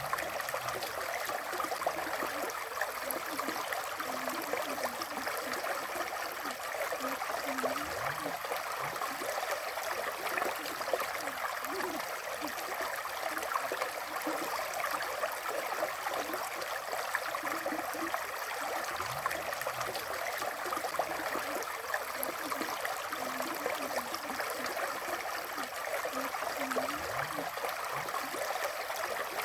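River water flowing steadily over rocks, a continuous rushing with small gurgles.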